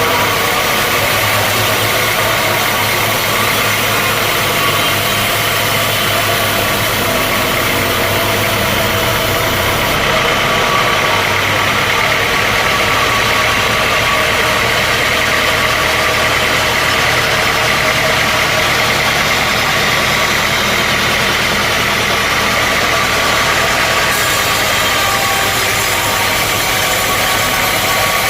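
Sawmill machinery running with a loud, steady mechanical drone that does not let up.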